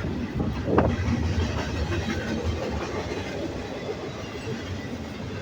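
Norfolk Southern intermodal freight train's cars rolling past: a steady rumble of steel wheels on the rails, with one sharp clack about a second in.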